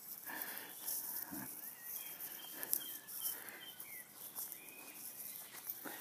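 Small songbirds singing, a string of short whistled notes scattered through the second half, over a faint background rustle.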